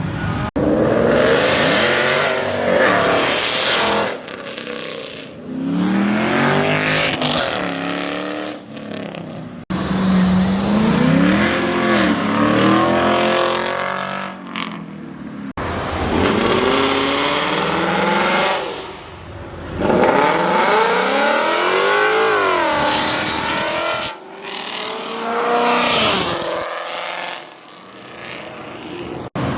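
Car engines revving hard and accelerating away, several in a row, each pitch climbing and falling through the rev range and gear changes.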